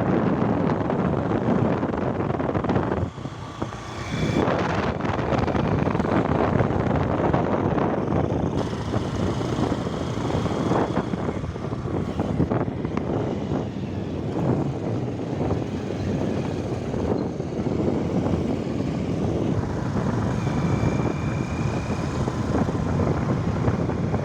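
Motorcycle riding under way: the engine running steadily, mixed with wind rushing over the microphone. The level dips briefly about three seconds in.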